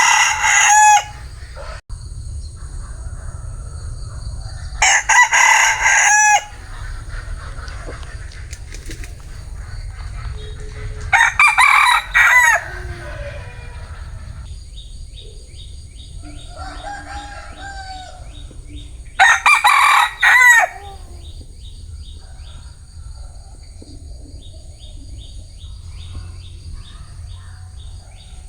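Bantam rooster crowing: loud crows about 1.5 seconds long come roughly every six to eight seconds, three full crows plus the tail of one just at the start, with a fainter crow in between near the two-thirds mark.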